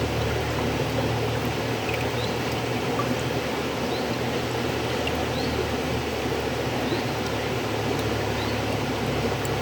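River water flowing steadily, a continuous rushing with a low rumble underneath and faint short high blips scattered through it.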